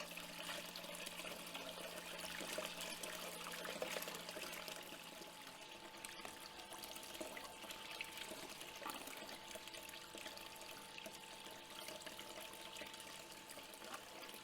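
Water pouring and trickling through a small sluice as gravel concentrate is fed through it, with a faint steady hum under it; the lower part of the hum stops about five seconds in.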